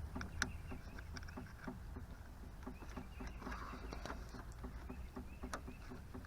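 Faint scattered clicks and handling noises of a door-latch cable end being worked into place by hand, over a low steady hum.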